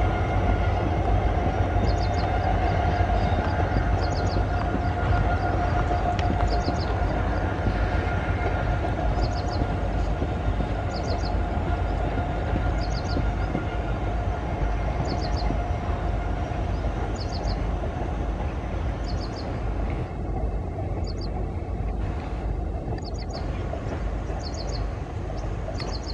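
ICF passenger coaches rolling across a railway overbridge: a steady rumble of wheels on the rails, easing off slightly toward the end.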